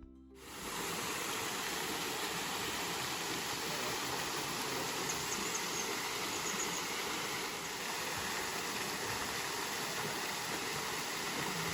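Prskaloto Waterfall, a karst-spring waterfall over limestone, pouring with a steady rushing of falling water that fades in during the first second.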